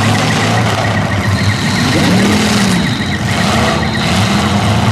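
Demolition derby cars' engines running loud through open exhaust, with one engine revving up and back down about two seconds in.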